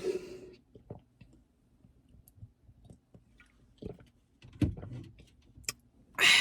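Close-miked mouth sounds of someone eating: quiet chewing with scattered small wet clicks of the lips and tongue, and a breathy exhale near the end.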